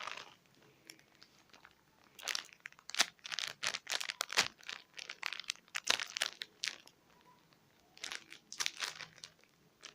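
Plastic packaging of a squishy toy crinkling and rustling as it is handled, in irregular bursts with short pauses between.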